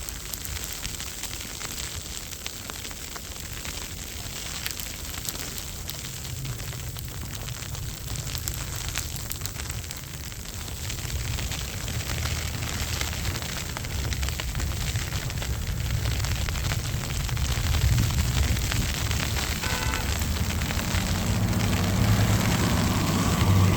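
Storm wind buffeting the microphone: an uneven low rumble under a steady crackling hiss, getting louder toward the end.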